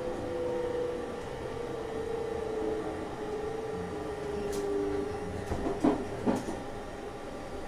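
JR Shikoku 8000 series electric train heard from inside while running: steady running noise with a motor whine that slowly falls in pitch. Near the end come two sharp clacks about half a second apart.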